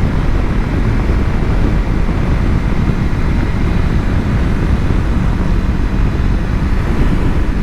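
Kawasaki Versys-X 300 motorcycle cruising at a steady pace: its parallel-twin engine running evenly under a steady rush of wind and road noise.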